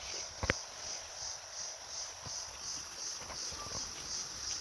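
Crickets chirping in a steady pulsing rhythm, about three pulses a second, with a single sharp click about half a second in.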